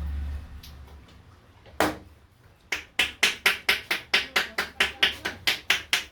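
Barber's hands striking a head in a rapid percussive Indian head massage: a single slap, then from a little before halfway a steady run of sharp claps at about five a second. A low hum stops in the first half second.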